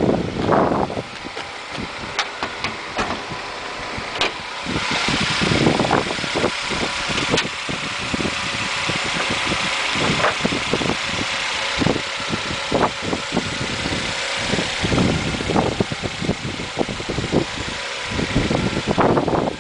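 Honda CR-V engine idling with the hood open, heard close up as a steady hissing whir that comes in about four seconds in. Wind buffets the microphone in gusts.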